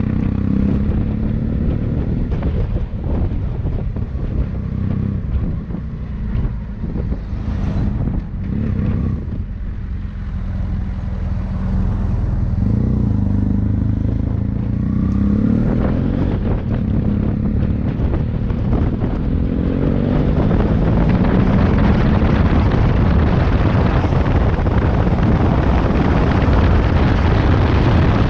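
Motorcycle engine running under way, its pitch rising and falling with throttle and gear changes, with wind buffeting the microphone. The wind noise grows louder in the last third.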